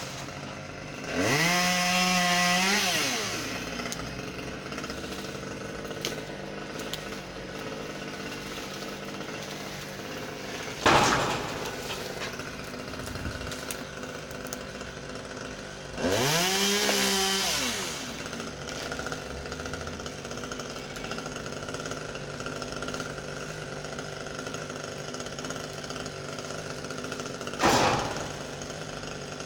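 Husqvarna T540 XP top-handle two-stroke chainsaw idling steadily, revved up twice for about two seconds each before dropping back to idle, with two short sharp loud bursts in between.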